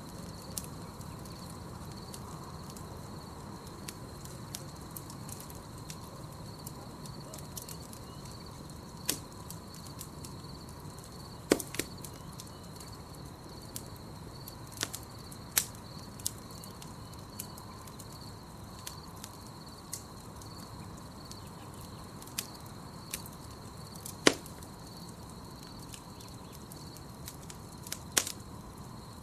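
Campfire crackling: irregular sharp snaps and pops of burning wood, a few of them much louder, over the fire's low steady hiss. A steady high trill sits behind it.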